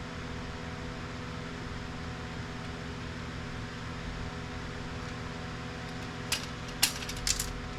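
Steady background hum, then a few sharp clicks near the end as the metal retaining clips on a printer's steel guide rod are worked loose.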